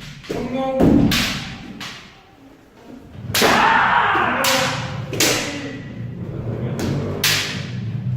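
Kendo sparring: a series of sharp cracks and thuds from bamboo shinai strikes and stamping footfalls on a wooden floor, with a loud drawn-out kiai shout about three and a half seconds in.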